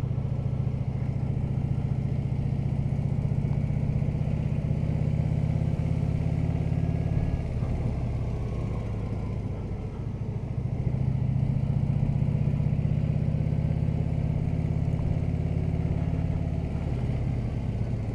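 Harley-Davidson V-twin motorcycle engine running under way at low speed. Its note eases off about halfway, then picks back up.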